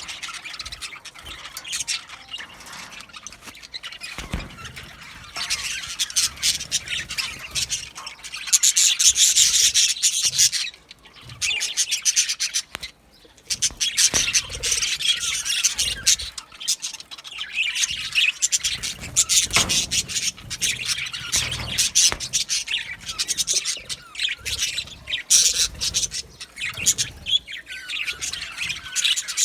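A flock of budgerigars chattering, chirping and squawking together, a dense, busy warble with the loudest burst about a third of the way in and two short lulls soon after.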